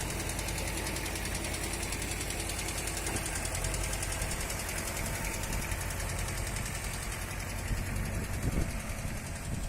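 Diesel engine of a VST Shakti MT270 four-wheel-drive mini tractor running steadily with a fast, even knock.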